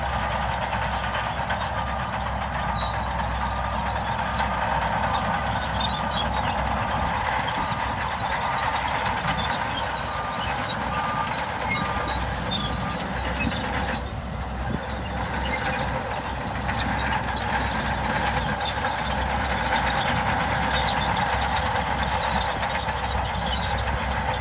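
Heavy construction machinery running steadily, diesel engine noise with a reversing alarm beeping at an even rate that stops about halfway through.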